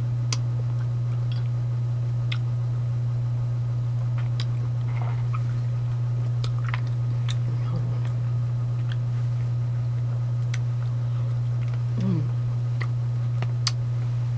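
Close-up chewing and wet mouth clicks and smacks of someone eating mandarin orange segments, over a steady low hum.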